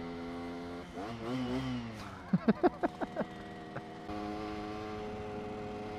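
Small motorcycle engine running steadily while riding, its pitch rising and falling about a second in as the revs change. A quick run of about six short loud knocks comes between two and three seconds in, then the engine settles back to a steady note.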